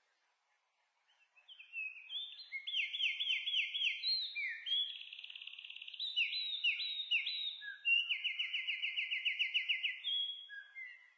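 A songbird singing a long, varied song: runs of quick falling notes about five a second, a buzzy stretch in the middle, then a fast trill near the end. It starts about a second in and stops just before the end.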